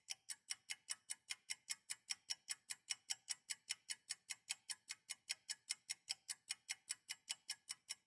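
Clock-style ticking sound effect: even, rapid ticks, about five a second, with dead silence between them, marking time passing while waiting.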